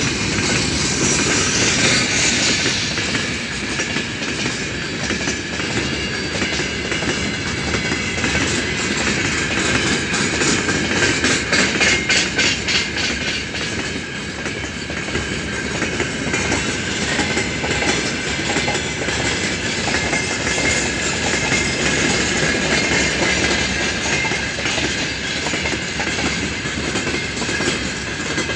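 Freight train of gondola cars rolling past at speed: a steady rumble of wheels on rail with a faint high ringing tone, and a quick run of wheel clicks over rail joints about ten to thirteen seconds in.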